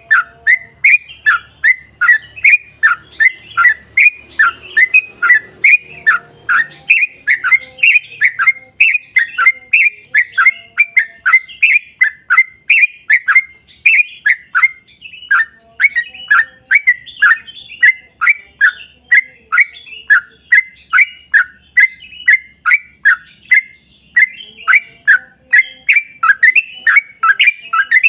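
Yellow-vented bulbul (trucukan) singing a long, unbroken run of short falling notes, about three a second.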